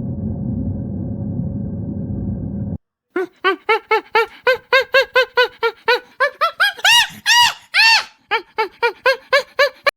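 A steady low rumble that cuts off abruptly about three seconds in. It is followed by an animal calling in a fast run of short, clear, pitched cries, three or four a second, with a few longer, higher cries in the middle of the run.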